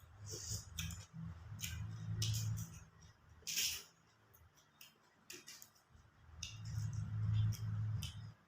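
Close-up eating sounds: chewing raw shrimp, with scattered small wet clicks and a short slurp about three and a half seconds in.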